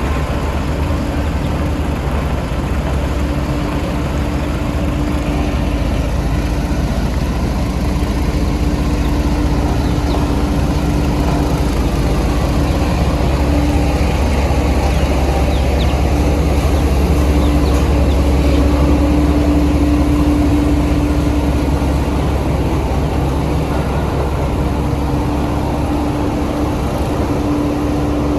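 Heavy diesel engine of road construction machinery running steadily, with a deep rumble and a steady hum. It grows a little louder toward the middle and eases off near the end.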